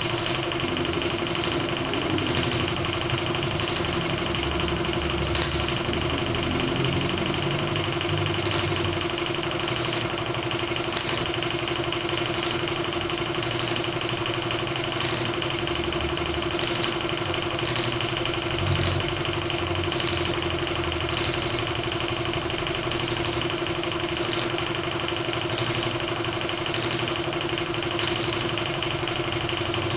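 A motor running steadily with a constant hum. Short high hissing strokes repeat about once every second or so over it.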